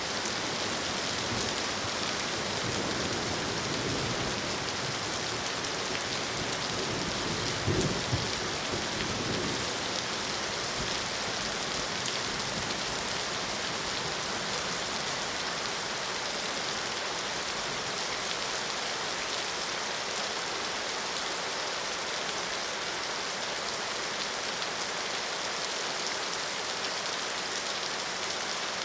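Steady, even rain falling. A low rumble of thunder swells a few seconds in, is loudest about eight seconds in, and fades by ten seconds.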